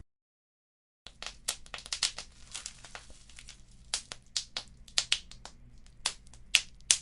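Wood fire crackling in a fireplace, with irregular sharp pops and snaps over a soft low hiss. It starts after about a second of complete silence.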